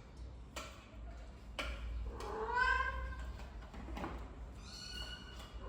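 Young kittens mewing: a louder, longer mew about two seconds in, then a second, higher-pitched mew near the end, with a couple of light taps before them.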